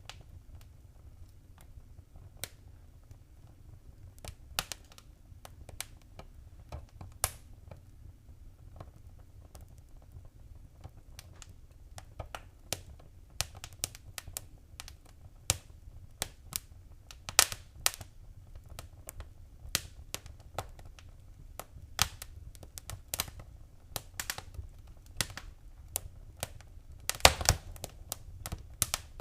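Wood fire crackling: irregular sharp snaps and pops over a steady low rumble of the flames, the pops coming thicker in the second half, with a loud flurry of them near the end.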